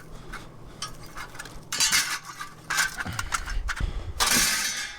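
Scrap steel pieces clanking and clattering against each other as they are packed into a load, in several separate bursts, the longest just after four seconds in.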